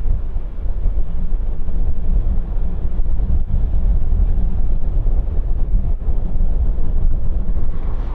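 Steady low rumble of jet aircraft engines, with wind buffeting the microphone.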